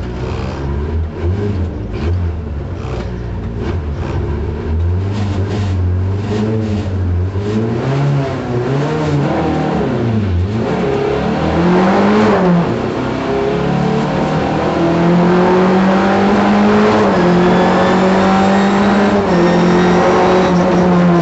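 Simca rally car's engine heard from inside the cabin, held at low revs, then revving up through the gears with rising and falling pitch as the car accelerates away from the start. In the second half it runs hard at high, steady revs, with brief dips about a few seconds apart.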